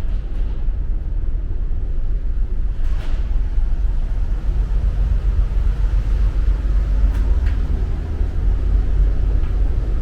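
Steady low rumble aboard a ferry under way, with a faint knock about three seconds in.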